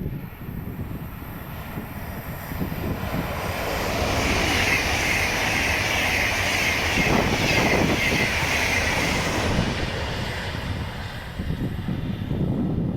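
A train passing by, its running noise swelling from about three seconds in, strongest in the middle and fading near the end, with wind rumbling on the microphone throughout.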